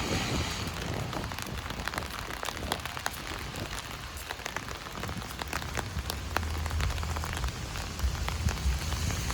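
Heavy rain drumming on an umbrella overhead, a dense patter of sharp drop ticks over a steady hiss. A low rumble builds in the second half.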